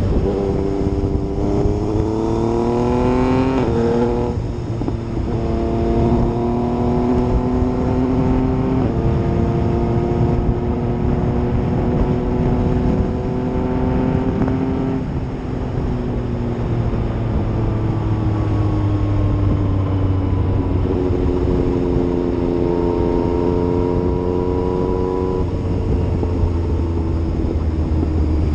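Yamaha MT-09's inline three-cylinder engine on the road, pulling up through the gears with two quick shifts about four seconds in, then climbing steadily. In the middle it eases off and falls in pitch, then pulls again near the end, with wind rush throughout.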